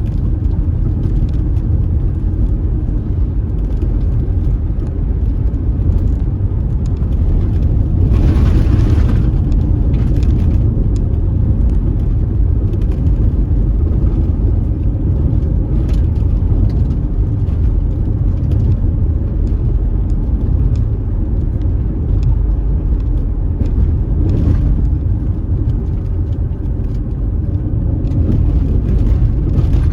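Road noise of a car driving on a dusty road: a steady low rumble of tyres and engine, with a brief louder hiss about eight seconds in and again near 24 seconds.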